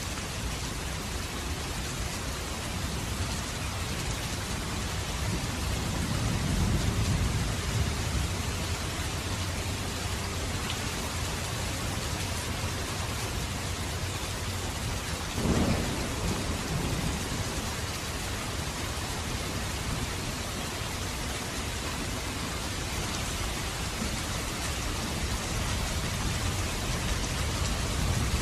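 Steady rain falling, with a low rumble of thunder about six seconds in and a sharper thunderclap about halfway through that rolls away over a couple of seconds.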